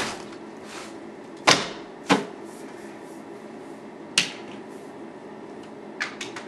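A broom knocking packed snow off a window, about five sharp, irregularly spaced knocks over a steady hiss.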